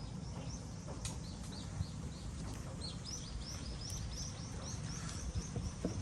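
A small bird calling a long series of short, high chirps that come faster and closer together about halfway through, over a steady low outdoor rumble.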